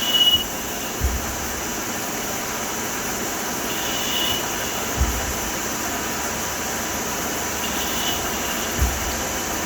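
Victor V-Turn 26 CNC lathe running, its boring bar cutting a curved washer from hard steel: a steady machining noise, with a short high whine and a dull low thump each recurring about every four seconds.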